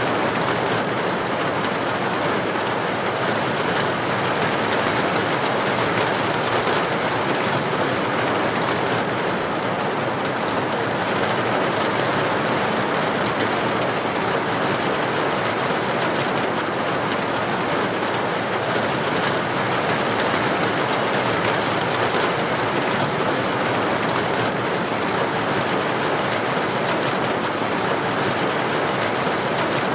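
Heavy rain falling steadily on a street, an even, unbroken hiss with no thunderclap.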